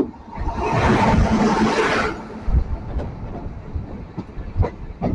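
Express train running along the track, with knocks and low thumps from the wheels passing over rail joints. A loud rush of noise swells about half a second in and drops away after about two seconds.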